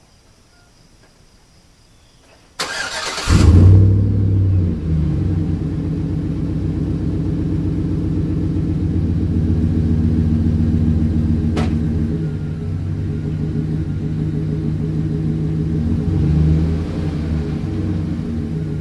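Chevy Silverado's 5.3-litre Vortec V8 with a Gibson Dual Extreme cat-back exhaust cold-starting: the starter cranks briefly about three seconds in, the engine catches with a loud flare of revs, then settles into a steady, deep idle with a slight rise in revs near the end.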